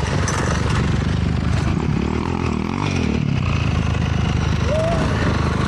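Honda CRF450R dirt bike engine revving up and back down about two seconds in, over a steady rumble of wind and riding noise.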